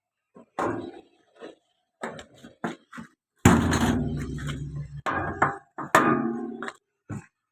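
A run of short knocks and clanks on metal, with a longer, louder clatter about halfway through, as parts of a Doosan excavator are handled.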